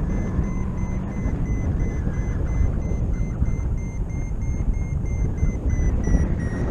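Wind rushing over the microphone in flight, with a paragliding variometer beeping about two to three times a second, the sign that the glider is climbing in lift. Near the end the beeps drop slightly in pitch.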